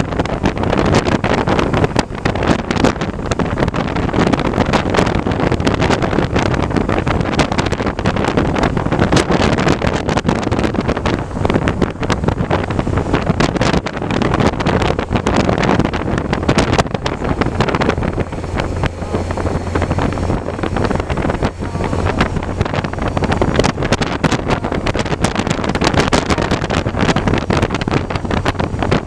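Wind buffeting the microphone of a moving bike, with gusty rushing throughout and a low steady hum underneath.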